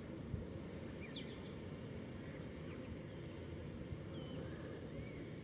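Scattered short chirps of small birds over a steady low rumble, with a single short knock near the start.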